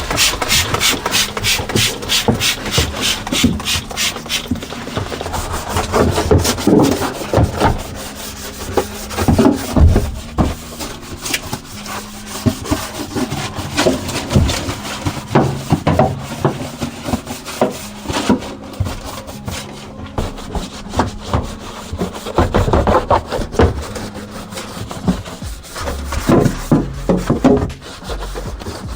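A stiff brush scrubbing a car surface in quick back-and-forth strokes, fast and even at first, then in irregular bursts.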